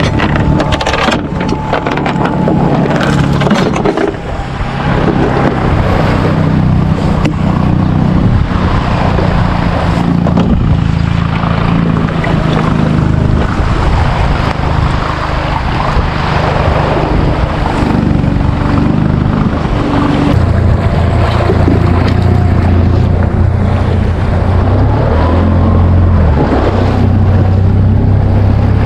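Small boat's outboard motor running under way, its pitch stepping at times, with wind buffeting the microphone and water rushing past the hull.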